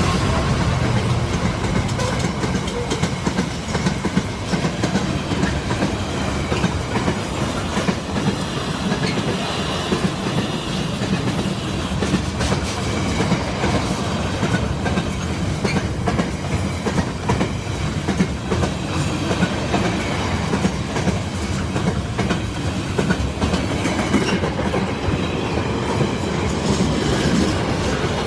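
A long freight train rolling past at speed over a level crossing, its wagon wheels clicking over the rail joints in a continuous clickety-clack with a steady rumble under it.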